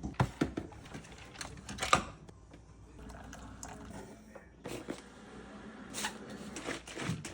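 Scattered clicks, knocks and light clatter of objects being handled, with a faint steady hum for a second or so in the middle.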